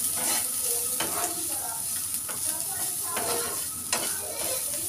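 Onion and spice masala frying in hot oil in a wok, sizzling steadily, while a metal spoon stirs and scrapes it, knocking against the pan several times.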